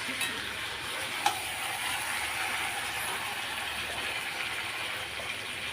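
Chicken and masala sizzling steadily in a kadhai, with a single sharp clink about a second in.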